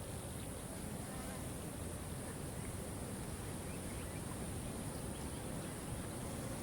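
Steady rush of a waterfall, with a constant high hiss over it and a few faint, brief bird chirps.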